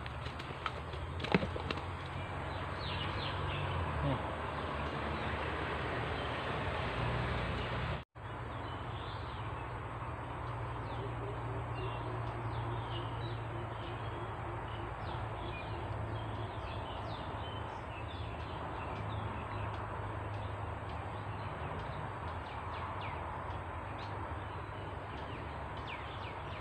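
Outdoor ambience of many small bird chirps over a steady hiss and low rumble, with a few handling clicks in the first seconds.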